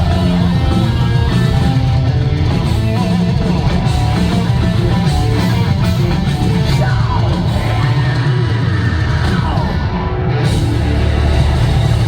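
Live rock band playing loudly, with electric guitar to the fore.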